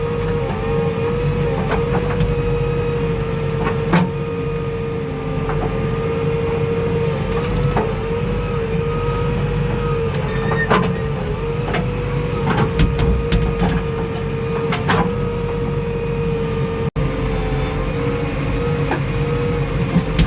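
JCB 3DX backhoe loader's diesel engine running steadily with a constant whine over its rumble, with scattered sharp knocks and clanks, several close together a little past the middle. The sound drops out for an instant about three-quarters through.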